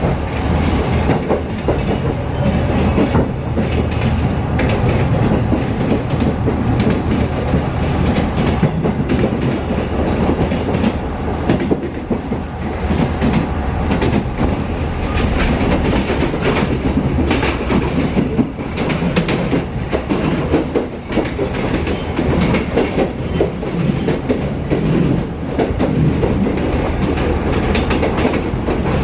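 Train running on rails, heard from on board: a steady low rumble with repeated clickety-clack knocks of wheels over rail joints.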